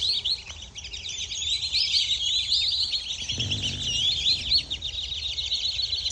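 A flock of black-bellied whistling ducks calling, many rapid high whistles overlapping without pause. A brief low rumble comes about three and a half seconds in.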